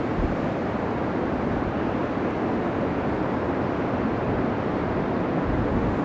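Steady running noise of tractor diesel engines, even and unbroken.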